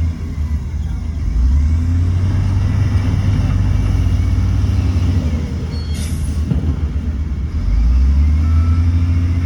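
Heavy diesel earthmoving machinery running under load, a deep engine rumble that swells about a second and a half in and again near the end. A short sharp clank about six seconds in.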